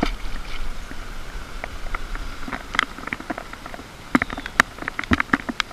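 Raindrops pattering on nearby surfaces: a faint hiss with many irregular sharp ticks of drops striking close to the microphone, coming thicker near the end.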